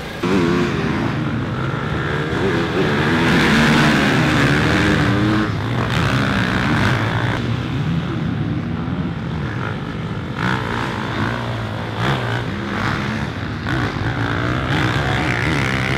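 Motocross bike engine revving, its pitch rising and falling again and again.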